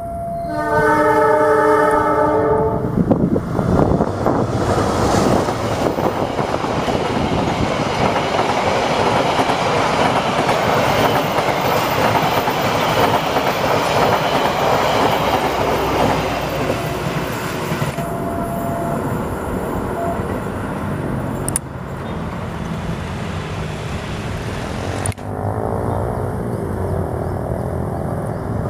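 A train's horn sounds a steady chord for about two seconds, then the train passes close by, its wheels clattering and rumbling loudly on the rails for about fifteen seconds before easing off.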